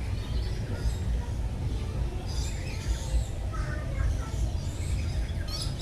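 Several birds chirping and calling in an aviary, short high calls scattered through, most of them about halfway in. A steady low rumble lies underneath.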